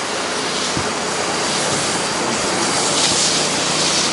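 Pressure washer wand spraying at low pressure, a steady hiss of water and 10% sodium hypochlorite solution onto a painted wood deck, growing slightly louder toward the end.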